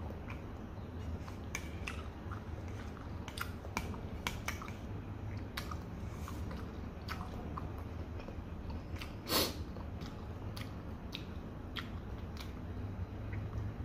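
Close-up mouth sounds of a person chewing fried noodles and meatballs: wet smacking clicks come irregularly throughout, with one louder smack about nine seconds in.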